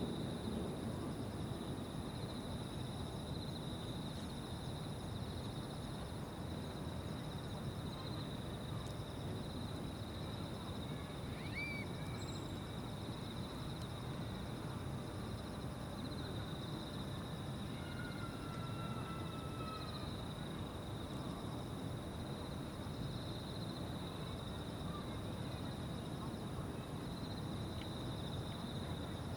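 An evening insect chorus singing in a steady, high, continuous trill over a low, steady rumble. A single short rising bird chirp comes about twelve seconds in.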